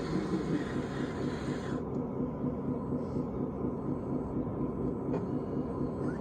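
Steady low mechanical rumble of a machine running. A higher hiss on top cuts off suddenly a couple of seconds in.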